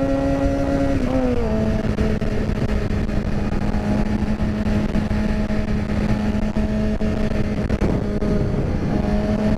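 Motorcycle engine running at a steady cruise, heard from the bike, over constant wind rush. Its note drops a little about a second in, then holds steady.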